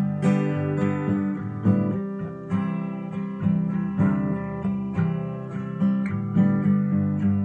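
Acoustic guitar strummed in a steady rhythm, a chord struck a little more than once a second: the instrumental lead-in to a song, with no singing yet.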